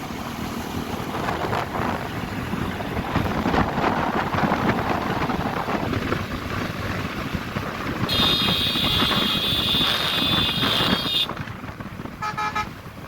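Wind and road noise while riding, then a vehicle horn blares for about three seconds, followed shortly after by a few quick beeps from a lower-pitched horn.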